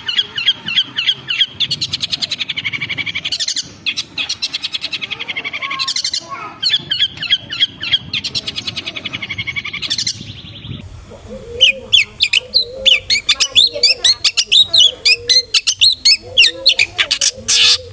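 Long-tailed shrike (cendet) calling in fast runs of sharp repeated notes. About eleven seconds in the recording changes to a busier stretch of quick, varied chattering notes with lower notes beneath.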